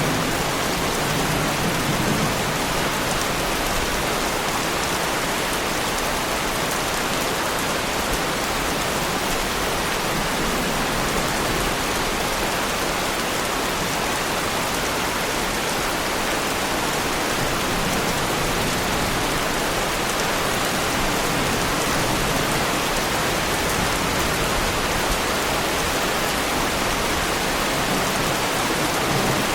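Heavy rain falling steadily, an unbroken wash of dense raindrops with no let-up.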